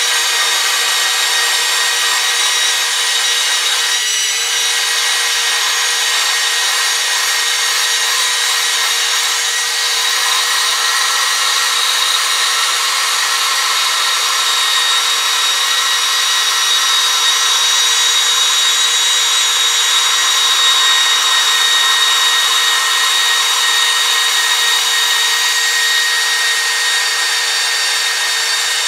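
Electric power tool running steadily with a constant high whine over a rasping hiss, its abrasive working against the metal of a vintage spanner wrench during restoration.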